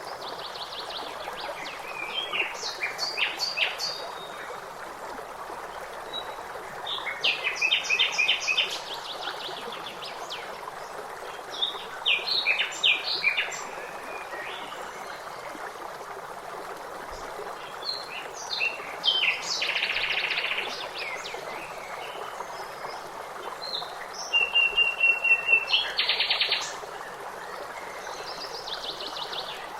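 Songbirds chirping and singing in short phrases every few seconds over the steady rush of a stream. One call near the end holds a single high note before breaking into a trill.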